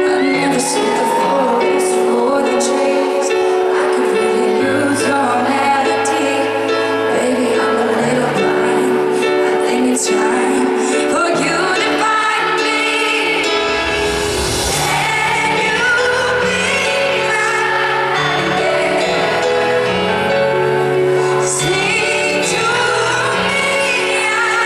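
Live pop ballad in concert: a female lead vocal singing over sustained keyboard chords, heard through the arena's sound system.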